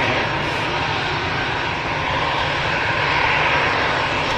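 Jet airliner engines running at the airport: a steady, even rush of engine noise.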